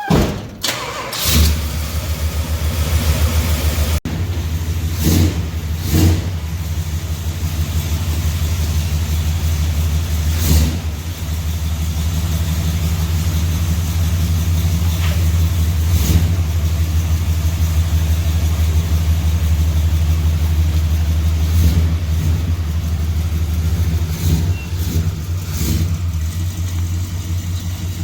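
A pickup truck's 400 big-block V8 starts up and settles into a steady run. A few brief sharp clicks or knocks sound over it.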